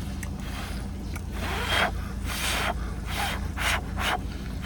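A person eating a mouthful of egg close to the microphone: about five short breaths and mouth noises through the middle and end. A steady low hum runs underneath.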